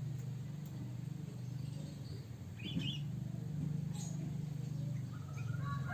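A few short, high bird chirps over a steady low hum.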